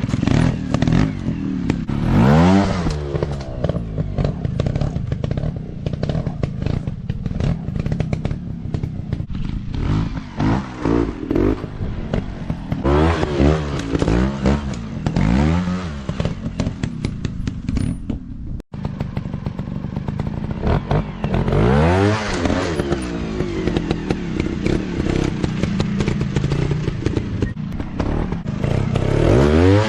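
Dirt bike engines revving, their pitch rising and falling again and again, with many short knocks. The sound cuts out for an instant about two-thirds of the way through.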